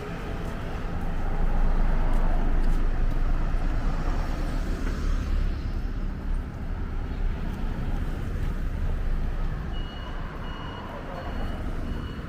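City street traffic: a motor vehicle passes close by, loudest about two seconds in and then fading. A high electronic beeping starts near the end.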